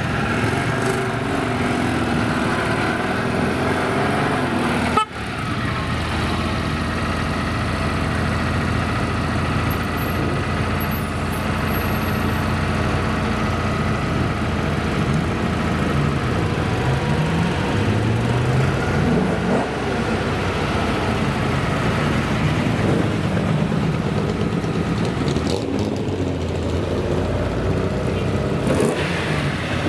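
Classic cars' engines running and revving as they drive past, pitch rising and falling several times, with a sharp break about five seconds in.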